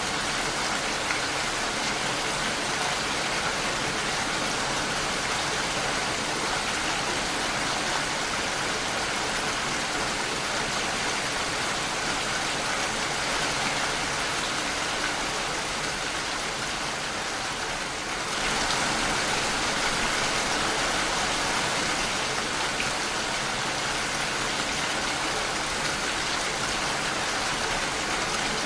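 Steady rain against a window pane, an even hiss with no single drops standing out. It dips slightly, then steps up a little louder about two-thirds of the way through.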